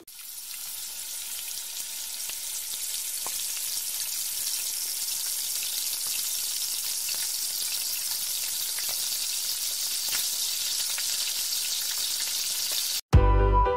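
Sliced potatoes frying in hot oil in a pan: a steady sizzle with faint scattered pops, growing louder over the first few seconds. It breaks off near the end as music comes in.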